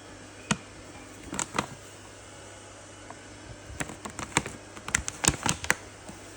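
Irregular sharp clicks and knocks: one about half a second in, a few more around a second and a half, then a quick uneven cluster over the last couple of seconds.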